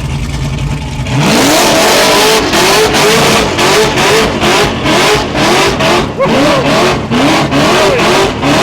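Supercharged 6-litre LS V8 with an 8-71 blower and mechanical injection in an HG Holden wagon burnout car, idling and then revved hard about a second in. Its pitch climbs and drops again and again as the throttle is worked, loud throughout.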